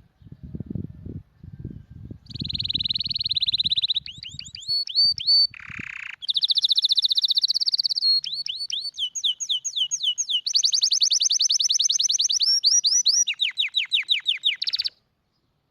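Domestic canary singing: a string of rapid trilled phrases, each a fast run of repeated or sweeping notes, switching to a new phrase every second or two, then stopping abruptly near the end. A low rumbling noise lies under the first few seconds.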